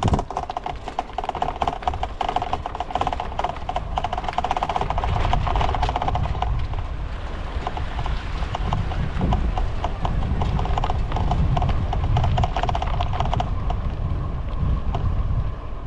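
Bicycle freewheel hub ticking rapidly as the bike coasts, with wind rumbling on the microphone. The ticking stops near the end.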